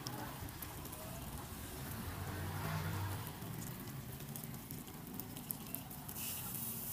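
Cakes sizzling and crackling in a hot cast-iron cake mould, a steady hiss full of fine pops. About six seconds in the sizzle grows louder and busier as fresh batter is poured into the hot cups. A low rumble swells briefly in the middle.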